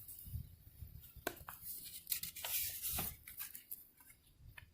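A page of a picture book being handled and turned: a few crisp paper clicks about a second in, then a longer paper rustle around two to three seconds in.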